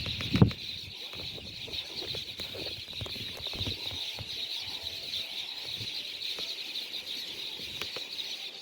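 Steady high-pitched chirring of outdoor wildlife, with a few soft knocks in the first half-second.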